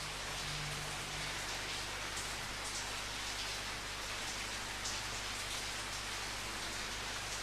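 Steady rain falling, with a few sharper drops or splashes standing out now and then.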